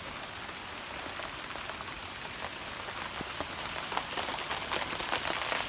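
Hail falling and striking hard surfaces: a steady patter of many sharp ticks, growing denser and louder in the second half.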